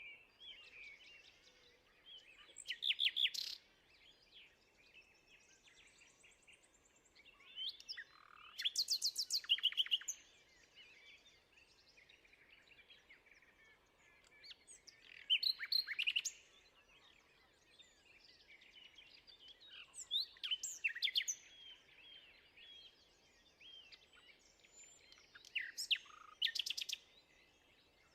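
Songbirds singing. A loud, fast trilled phrase comes about every six seconds, five times in all, with softer chirps and calls in between.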